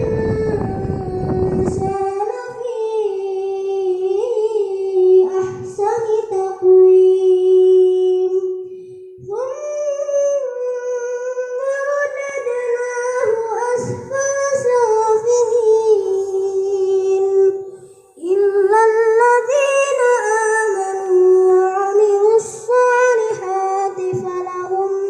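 A young boy chanting Quran recitation as an imam, a single high voice in long held notes with ornamented turns, pausing for breath about 9 and 18 seconds in. A low rumble sounds under the voice for the first two seconds.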